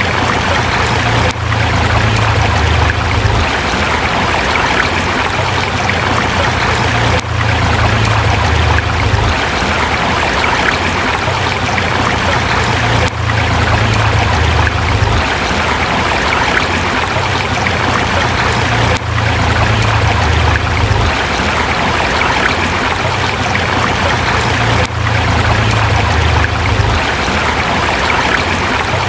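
River water rushing and splashing over rocks: a steady, unbroken flow with a slight dip in level about every six seconds.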